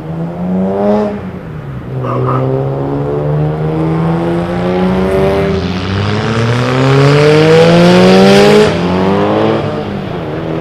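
Car engine accelerating hard, its pitch climbing in long pulls that drop back at each gear change; loudest just before the last drop, near the end.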